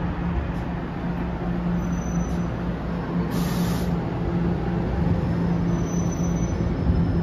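NJ Transit Multilevel commuter train beside the platform: a steady low hum over a dense rumble from the train's equipment, with a short high hiss about three seconds in.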